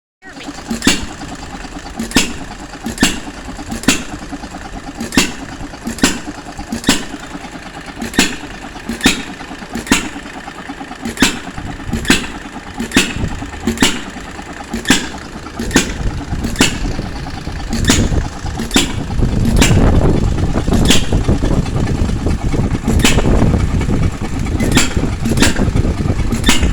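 Hit-and-miss engine running an ice cream maker, firing with a sharp pop about once a second and coasting between pops, as it does at light load. About two-thirds of the way in, a louder low rumble joins it.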